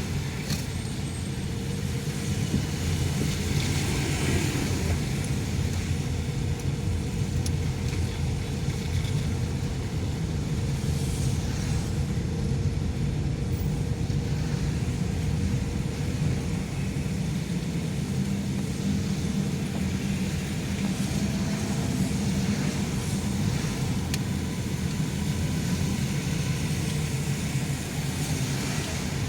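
Steady engine and road rumble of a car driving, heard from inside the cabin.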